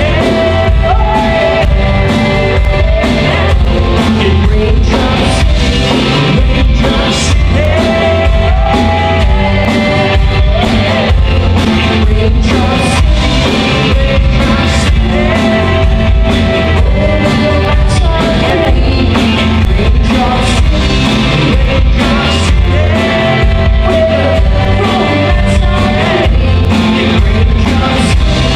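Live rock band playing a song, with drums, bass and a singing voice carrying held notes over the band.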